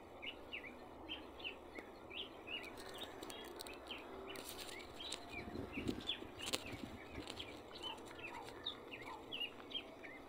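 Small birds chirping, short high rising chirps several times a second, over a faint steady background hiss. A few soft clicks come about halfway through.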